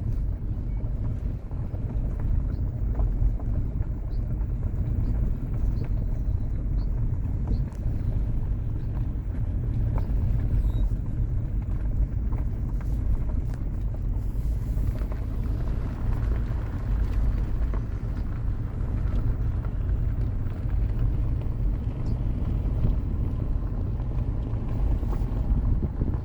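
Steady low rumble without pauses, with a few faint, short, high bird chirps in the first several seconds.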